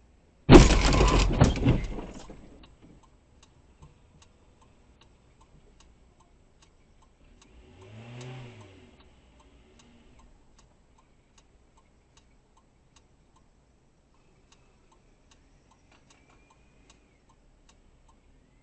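A car collision: a sudden loud crash about half a second in that dies away over a couple of seconds. Regular ticking about twice a second follows, and a vehicle goes by around the middle.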